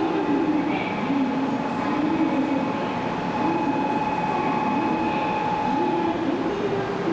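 500 series Shinkansen train running, a steady rail rumble with a high electric whine that strengthens through the middle.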